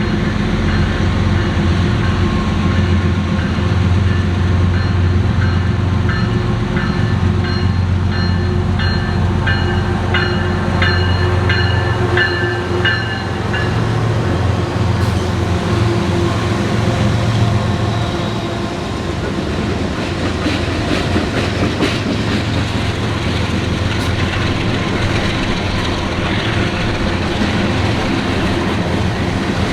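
A freight train passing at close range. A diesel locomotive's low, steady drone fills the first half, then the rail cars roll by with an even rumble and clickety-clack of wheels over rail joints.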